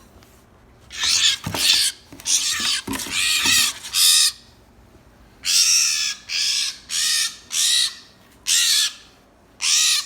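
Baby blue jay squawking: about a dozen harsh, raspy calls, first in a quick cluster about a second in, then repeated roughly every half second.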